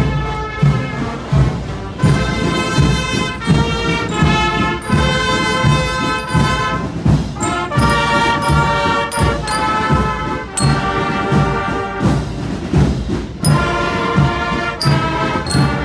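Brass band playing a slow processional march: sustained brass notes that change every half second or so over steady drum beats.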